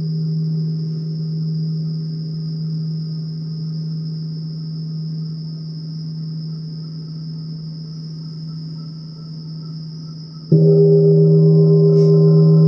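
A deep struck metal sound-bath instrument rings with a steady low tone and overtones, slowly fading. About ten and a half seconds in it is struck again, louder and rich in ringing overtones. A steady high ringing tone sounds throughout.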